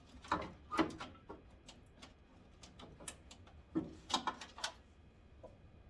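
Sharp plastic clicks and knocks as a stuck headlight connector on a 1991 Ford Ranger is wiggled and pulled by hand, in a cluster in the first second or so and another about four seconds in. The old connector is seized on and won't unplug.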